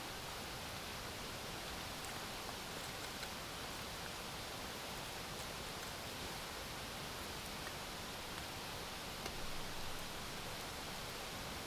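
Steady hiss of rain, with a few faint scattered drop ticks and a slightly louder patch near the end.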